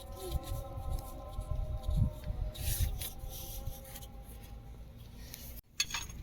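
Faint metallic scraping and light knocks of a spanner working the 19 mm mounting nuts of a truck's starter motor. A faint steady tone runs in the background for most of it.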